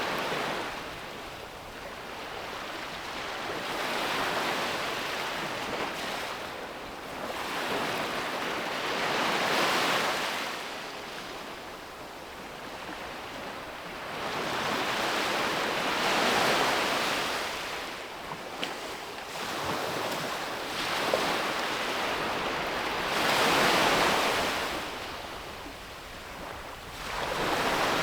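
Sea waves breaking on a beach, each one a swelling rush of surf that fades away before the next, about every six to seven seconds.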